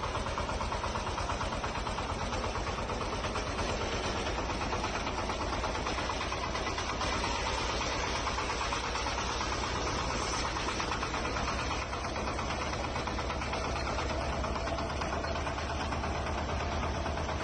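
Small engine of a miniature model tractor running steadily with a fast, even beat.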